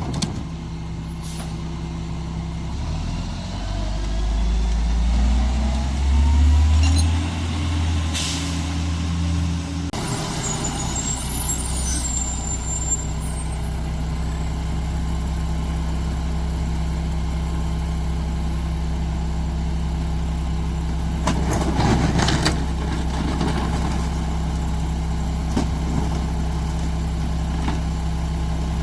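Mack MR garbage truck's diesel engine idling, then revving up with a rising pitch for several seconds before dropping back to idle about ten seconds in. Short hisses of air from the truck's air brakes come about eight seconds in and again a little past twenty seconds.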